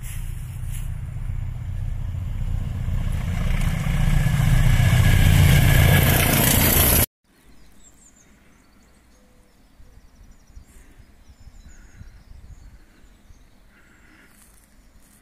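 A train approaching on the line, growing steadily louder and then cut off abruptly about seven seconds in. After that there is quiet outdoor ambience with a few faint bird chirps.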